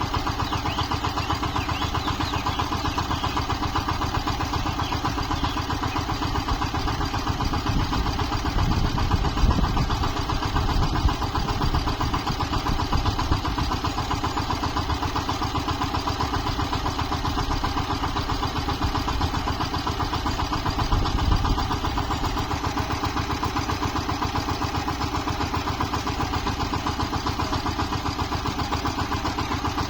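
Tractor engine running steadily while the tractor puddles and levels a wet paddy field. It grows louder for a few seconds twice, around nine and twenty-one seconds in.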